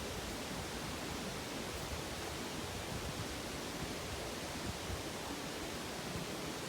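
Mountain stream water rushing with a steady, even noise.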